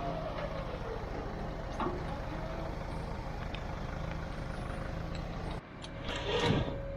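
A vehicle engine idling steadily. About five and a half seconds in, the sound drops off sharply and a louder hiss with a steady whine takes over.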